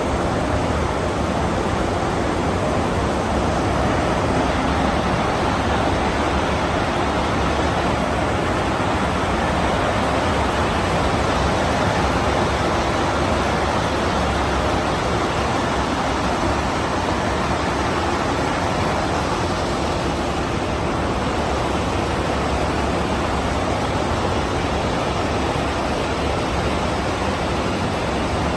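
Hose braiding machine running on a production line, a steady loud mechanical noise with a faint steady hum underneath.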